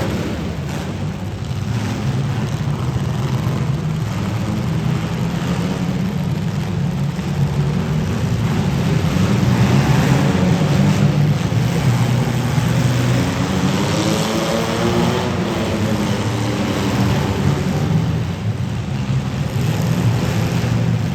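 Several demolition derby cars' engines running loud, with engine pitch rising and falling as they rev about two-thirds of the way through.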